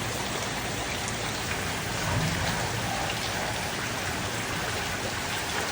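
Rain falling steadily, an even hiss of drops on leaves and surfaces.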